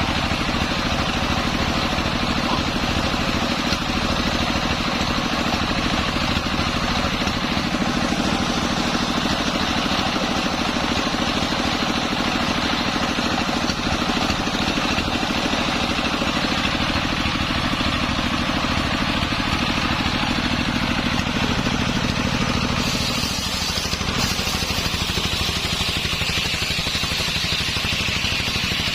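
Engine-driven homemade circular saw rig running steadily. About 23 seconds in, its sound changes, with a brighter, higher whine through to the end.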